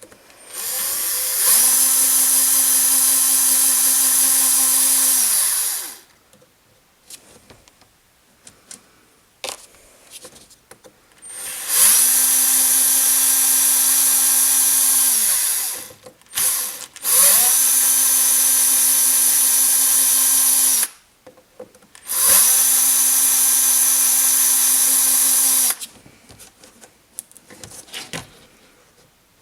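Small power drill with a 2.5 mm hex bit running in four bursts of three to five seconds each, backing out the axle screws of an Axial SCX-10 RC crawler. Each burst spins up into a steady whine and winds down at the end. Light clicks of handling come between the bursts.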